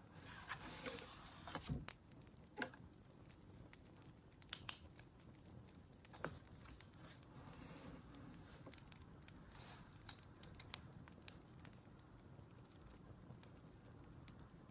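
Faint crackling of a burning wood fire, with sparse sharp pops scattered through, and a brief rustle in the first two seconds.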